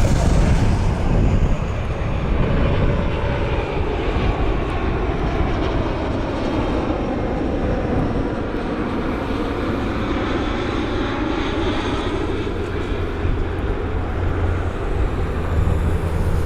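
Jet engine noise of an inbound Boeing 777-200 airliner, a steady broad rushing sound whose tone sweeps slowly as the plane passes, with a deeper low rumble building near the end.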